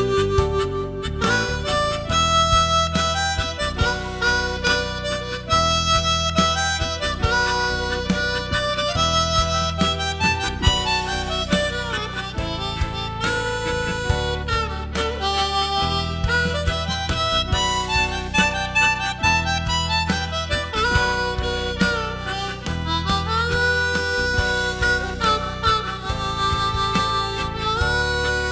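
Harmonica ensemble, chromatic harmonica and blues harp, playing a slow pop ballad: a melody with sliding, bent notes over held low notes and chords.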